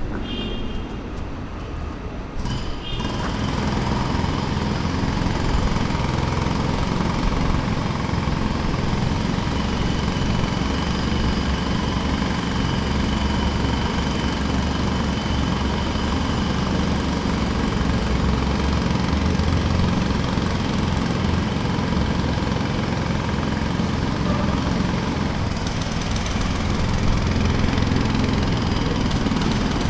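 Jackhammer hammering steadily on a construction site, starting up loud about three seconds in after a quieter stretch.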